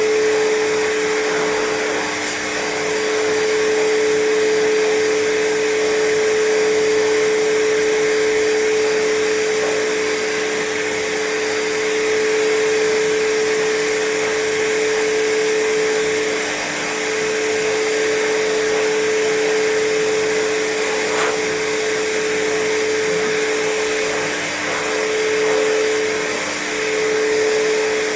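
Grooming blow dryer blowing air onto a cat's fur, running steadily with a constant whine under its rush of air. The whine dips briefly a few times in the second half.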